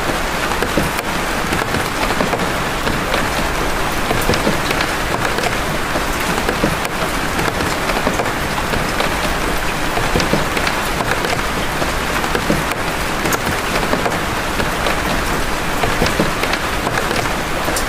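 Steady rain with many large drops landing separately: crisp single ticks scattered over an even hiss.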